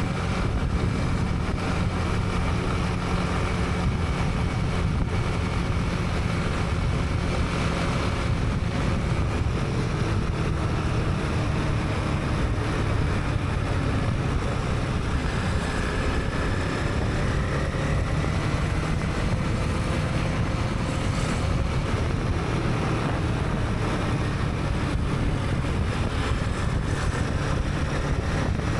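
Honda CB300R's single-cylinder engine running steadily while riding, its pitch rising and falling gently with the throttle, with wind noise on the helmet-camera microphone.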